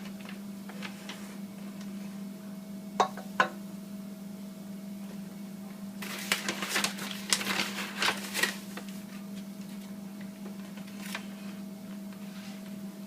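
Kitchen handling noises over a steady low electrical hum: two sharp taps about three seconds in, then a stretch of rustling and light clatter from about six to eight and a half seconds and one more tap near eleven seconds, as powdered Splenda is measured and poured into a mixing bowl.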